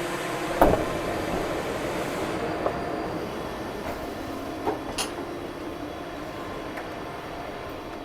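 Electric regional train standing at a station platform: a steady hum made of several held tones. There are a few short sharp knocks, the loudest about half a second in.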